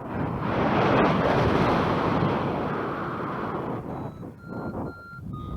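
Wind gusting across the microphone in a loud rush that eases off after about three seconds. Then a run of short electronic beeps that change in pitch, typical of a flight variometer, comes back near the end.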